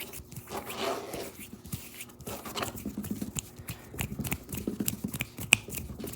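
Close-up tapping and handling sounds: a patter of light taps and clicks with soft rustling, denser in the second half, and one sharper click about five and a half seconds in.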